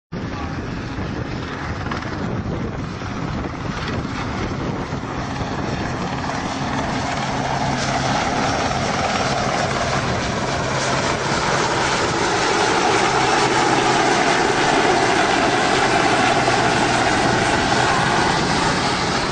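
Sea King helicopter's rotors and twin turboshaft engines running in a flying display, steady and slowly growing louder.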